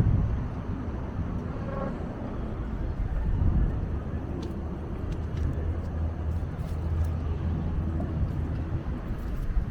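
Road traffic in a city: a steady low rumble of passing vehicles.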